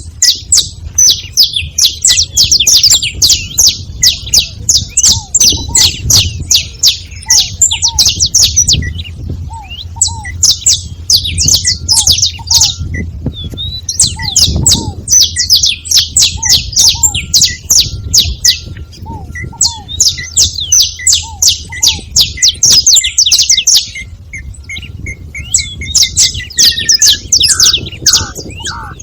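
Saffron finches chirping in long, fast runs of sharp high notes, with short breaks between the runs.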